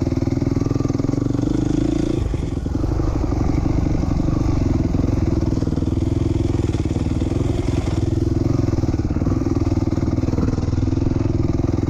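Dirt bike engine (a 2007 450R) running hard while riding a motocross track, holding steady revs with a short let-off about two seconds in before it picks back up.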